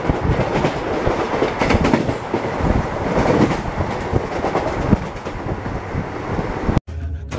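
Indian Railways passenger train running on the track, heard from aboard: a steady rolling noise with irregular clattering of wheels over rail joints. It cuts off abruptly near the end, where background music begins.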